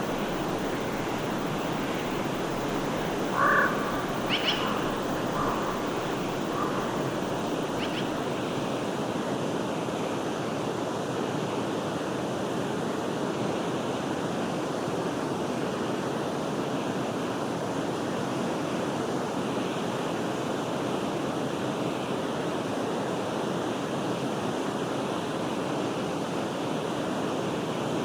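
Forest stream flowing with a steady rush of water. A few short animal calls come in the first several seconds.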